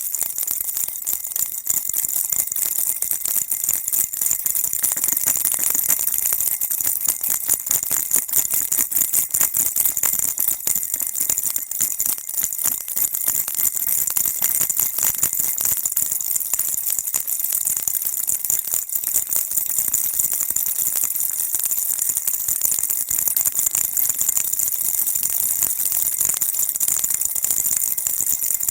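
Baby rattle shaken continuously: a dense, unbroken stream of fast, tiny rattling clicks, bright and high-pitched.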